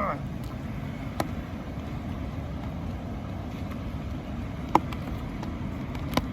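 Steady low outdoor rumble, with three sharp ticks: about a second in, near five seconds, and near the end. The middle tick is the loudest.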